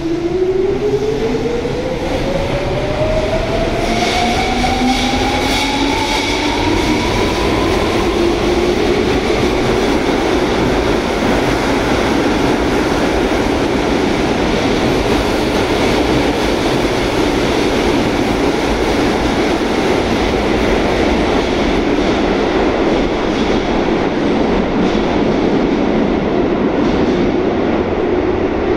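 Electric commuter train accelerating out of an underground station: its traction motors whine, rising steadily in pitch over the first eight seconds or so, then the cars run past with a steady rumble of wheels on the rails.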